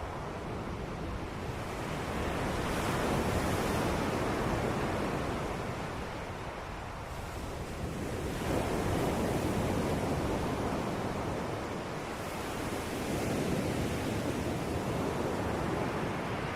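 Ocean waves breaking and washing on a shore, in slow swells about every four to five seconds, each rising and fading back.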